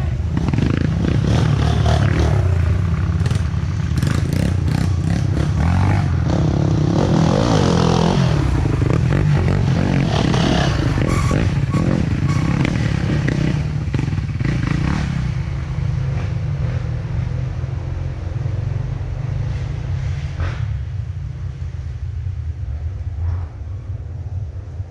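Off-road trail motorcycle engines running and revving, with clattering and scraping. About fifteen seconds in the engine noise drops back, leaving a steady low rumble.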